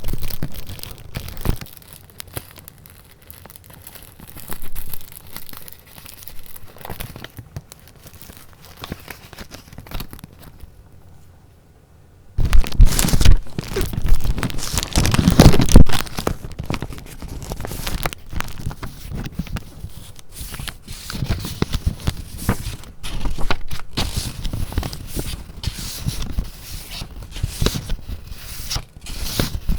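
Paper being handled: rustling, crinkling and crackling of sheets and packaging, sparse at first, then, after a brief pause, much louder and busier from about twelve seconds in.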